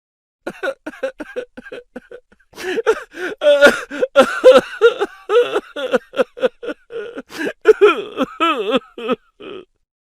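Laughter sound effect: a high-pitched voice laughing in quick, repeated bursts, stopping just before the end.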